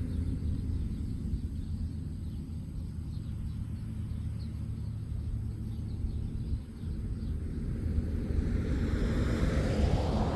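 Outdoor road traffic: a low steady rumble, with a car passing and swelling louder about nine seconds in.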